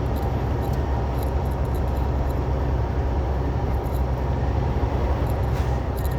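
Semi truck's diesel engine running with a steady low drone under even road and wind noise, heard from inside the cab while driving.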